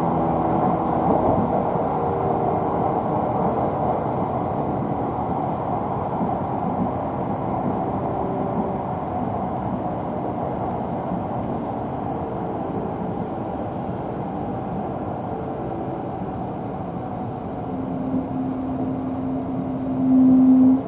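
Tohoku Shinkansen train running through the station: steady rushing noise that slowly fades, with the electric motors' faint whining tones coming and going. Near the end a loud single low tone is held for about three seconds, then cuts off.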